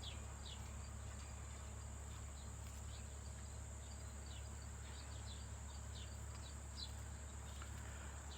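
Faint outdoor ambience: a steady high insect drone, with short, falling high-pitched chirps every so often.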